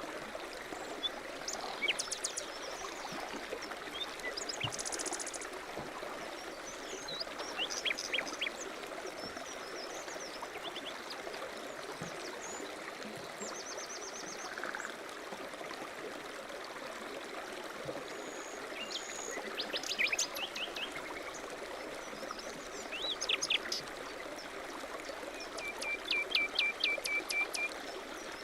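Steady rush of a flowing stream, with small birds chirping and trilling now and then over it; a fast trill of repeated notes near the end.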